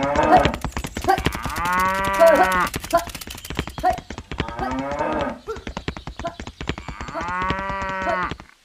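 A cow mooing in two long calls, about two seconds in and again near the end, with shorter calls between, over a fast, even clicking.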